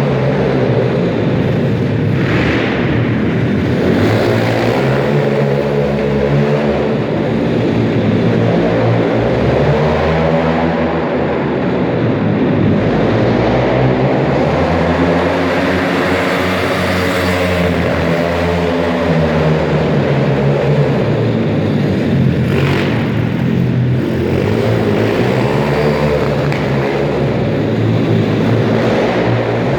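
Pit bike engine revving up and down again and again, the pitch climbing and dropping every few seconds as the rider accelerates and slows through the track.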